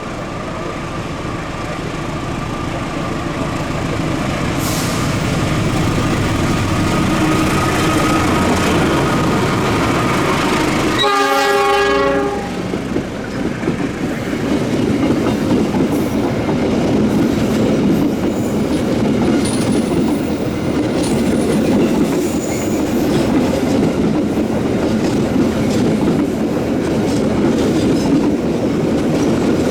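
Passenger train approaching and passing close by: its rumble grows louder, the locomotive's horn sounds one blast about a second long some eleven seconds in, then the carriages roll past with steady wheel-on-rail noise.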